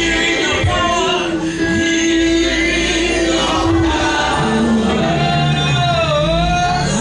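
Gospel worship music: voices singing long held notes over a steady instrumental backing, with one note bending down and back up near the end.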